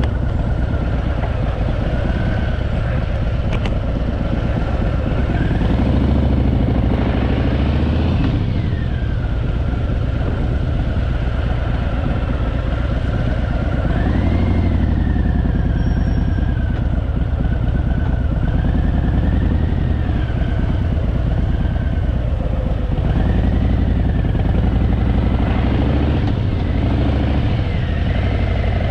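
Harley-Davidson Fat Boy's V-twin engine running on the road, its pitch rising and falling a few times as it revs and changes gear.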